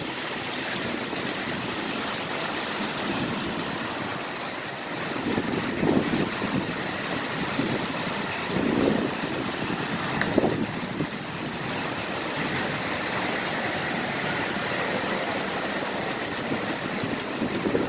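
Heavy rain coming down in a steady hiss, with a few short low swells now and then.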